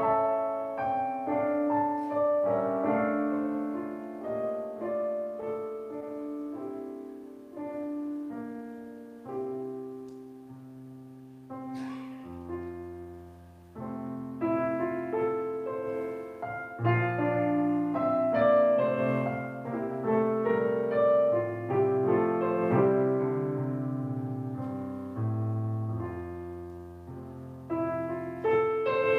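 Piano playing a slow, gentle prelude: held chords and a melody, softer around the middle and fuller again toward the end.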